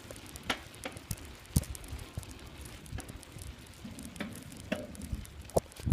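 A bicycle being ridden, rattling with irregular clicks, knocks and crackles, the loudest knock near the end.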